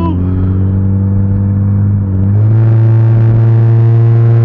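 Car engine heard from inside the moving car, droning steadily, then about two seconds in its pitch steps up and it gets louder as the revs jump and hold higher under acceleration.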